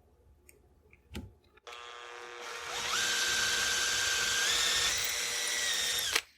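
Electric drill boring a screw hole into a walnut rifle stock: it starts a little under two seconds in, speeds up to a steady whine, rises slightly in pitch near the middle and stops just before the end. A single click comes about a second in.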